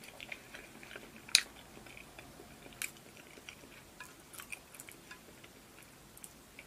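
Close-up mouth sounds of a person chewing a soft-boiled braised egg: soft wet clicks and smacks, with one sharper click about 1.4 seconds in.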